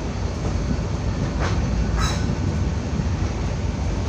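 Passenger train running on the rails: a steady low rumble of wheels and carriages, with two short, sharper metallic noises about one and a half and two seconds in.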